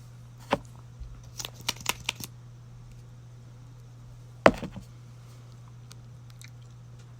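Sharp clicks and taps of makeup containers and tools being handled and set down: one click about half a second in, a quick run of small clicks shortly after, and one louder knock near the middle, over a steady low hum.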